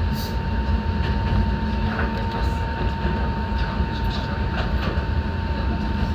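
Enoden electric train running, heard from inside the car: a steady low rumble of wheels on the rails, with a thin steady high tone and a few faint clicks.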